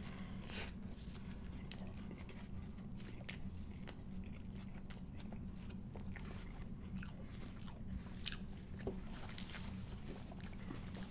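Chewing a mouthful of crispy fried chicken sandwich, with many small crunches and clicks, over a low steady hum.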